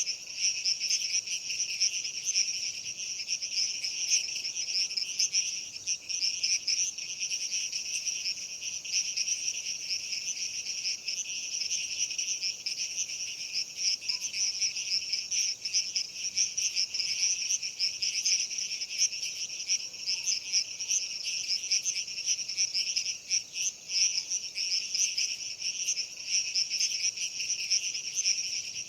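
A chorus of crickets chirping: a dense, steady, high-pitched trill that never lets up.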